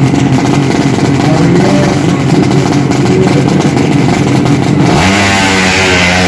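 Drag-racing motorcycle engines running and revving hard. About five seconds in, the sound changes abruptly to a steadier engine note with a wavering, higher whine above it.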